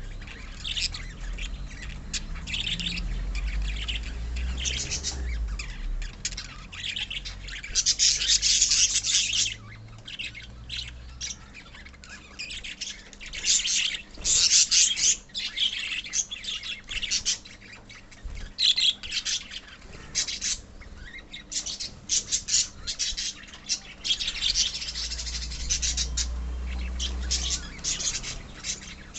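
A colony of lovebirds chattering, chirping and squawking together in a continuous, busy din, with louder outbursts of squawking now and then.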